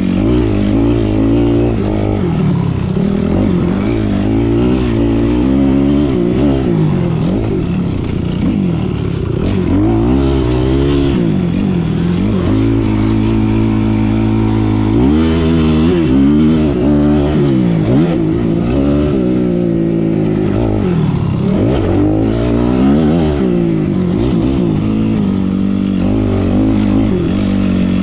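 Motocross dirt bike engine racing around the track, its pitch climbing and dropping again and again as the rider accelerates, shifts and rolls off the throttle.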